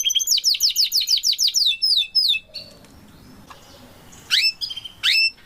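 Domestic canary singing: a fast trill of repeated falling whistled notes for about two and a half seconds, then after a short pause two loud rising call notes.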